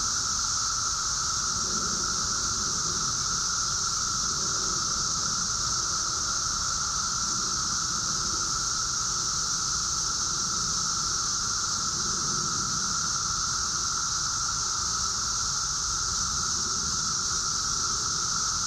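Dense chorus of 17-year periodical cicadas: a steady, unbroken drone with a high hiss and a lower, narrower whine.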